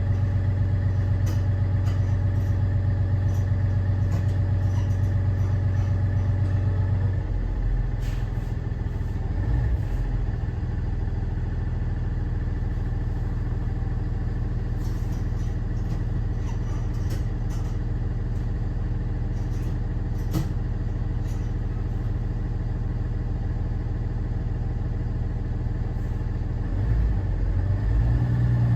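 Cummins ISB 6.7 diesel engine of a Thomas Saf-T-Liner C2 school bus pulling steadily on a ride. The engine drops off abruptly about seven seconds in and settles to a lower steady hum, with a few sharp clicks and rattles. It picks up again near the end.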